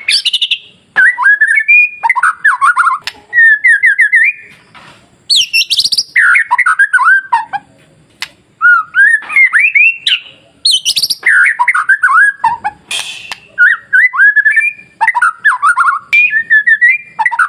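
White-rumped shama singing: loud, varied phrases of rapid rising and falling whistled notes, in bursts with short pauses between them.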